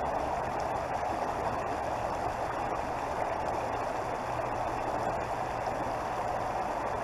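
Creek water flowing steadily, an even rushing noise with a faint low rumble underneath.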